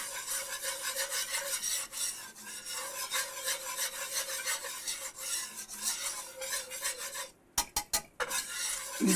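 A whisk scraping around a skillet as it stirs a browning flour-and-fat roux for sawmill gravy, in quick continuous rasping strokes. The strokes stop for a moment about seven and a half seconds in, with a few sharp taps, then start again.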